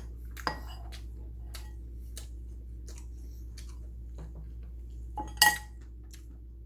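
Eating utensils clinking against dishes: a sharp clink about half a second in, a few light taps, and a louder ringing clink about five and a half seconds in.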